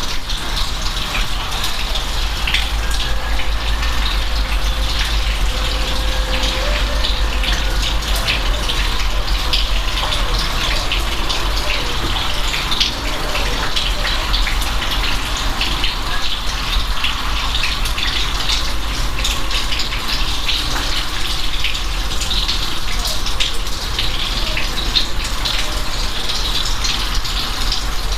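Steady rain falling, with a dense patter of individual drops over an even hiss and a constant low rumble underneath.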